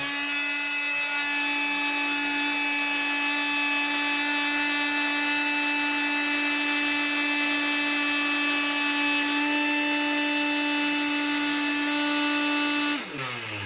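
Electrolux Ergorapido handheld vacuum cleaner's motor running with a steady high whine, then cutting out near the end and winding down. It shuts off this early because its worn battery pack sags in voltage, even with a bench power supply helping it.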